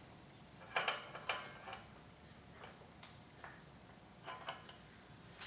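Motorcycle O-ring drive chain clinking in scattered light metallic clicks as it is pulled by hand around the front sprocket, loudest about a second in.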